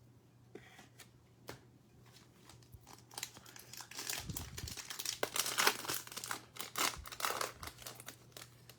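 Plastic wrapper of a football trading card pack being torn open and crinkled, starting about three seconds in after a few light clicks of cards being handled.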